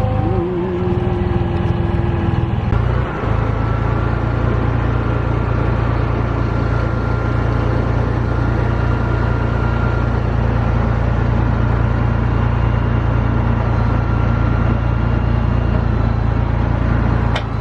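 An engine running steadily at a constant speed, with a brief higher tone in the first few seconds.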